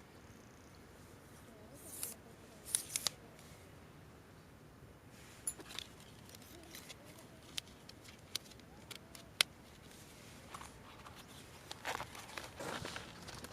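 Scattered sharp clicks and snaps with brief rustling, heaviest near the end, like small objects or wood being handled.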